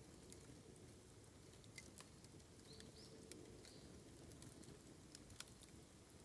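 Faint crackling of a bamboo bonfire: sparse small pops and ticks over a low steady rumble, with three short high chirps about three seconds in.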